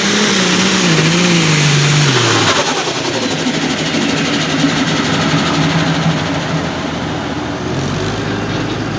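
High-horsepower pulling vehicle's engine coming off full throttle. Its pitch falls steadily for about two and a half seconds, then it settles into a lower, steady run as the pull ends.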